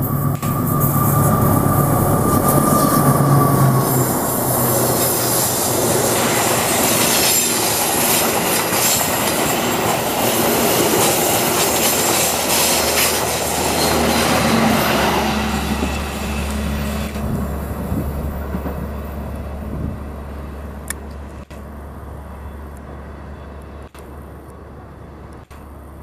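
Passenger train passing close by: a diesel locomotive's engine hum as it goes past, then stainless-steel carriages rolling by with wheels rumbling on the rails. The noise dies away from about seventeen seconds in as the train moves off.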